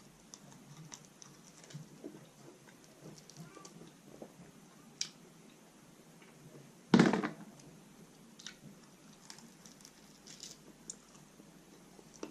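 Close-up chewing of a roast chicken wing: small crunches of crispy skin, wet clicks and smacks at an uneven pace. About seven seconds in comes one loud, short thump, the loudest thing here.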